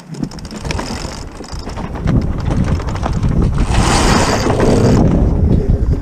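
Wind buffeting the microphone aboard a sailboat under sail. It is a heavy, rumbling rush that cuts in suddenly, builds over the first two seconds and then holds steady.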